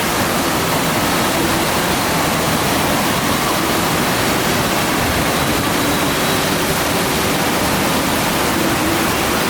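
FlowRider surf machine running: a steady rush of pumped water sheeting up over the ride surface.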